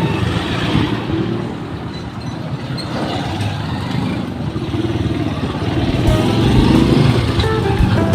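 Motor vehicle running, a steady mix of engine and road noise.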